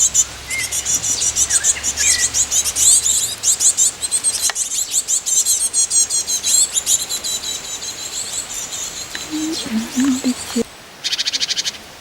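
Small songbirds chirping in a fast, dense stream of high, repeated notes. The chirping drops away briefly near the end, then one more quick burst follows.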